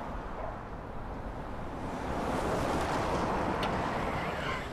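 A rushing noise that swells to a peak about midway and then eases off, with a few light clicks near the end.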